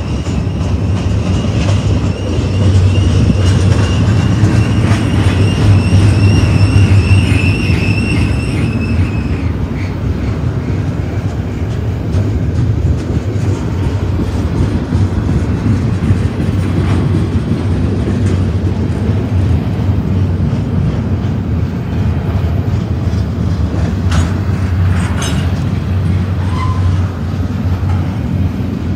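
Double-stack intermodal freight train rolling past close by: a steady, loud rumble of the well cars on the rails. A high, wavering squeal rides over it for about the first nine seconds.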